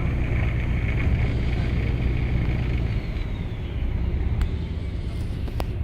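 Steady low rumble of a boat engine with a haze of water and wind noise, and a few faint clicks near the end.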